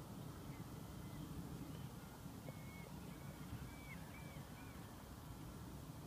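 Faint, short bird calls, about half a dozen, each a brief arched note, heard over a low rumble of wind on the microphone.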